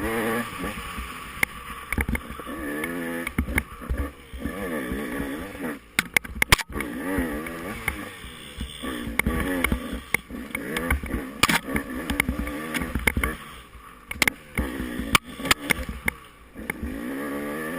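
Off-road motorcycle engine revving up and down over and over, with frequent sharp knocks and clatters.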